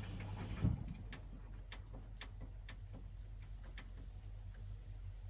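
Washing machine mid-wash: light ticks about twice a second over a low steady hum.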